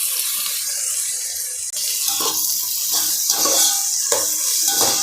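Sliced onions sizzling steadily in hot oil in a kadai as they fry down toward golden brown. From about two seconds in there are a few short, irregular knocks and scrapes.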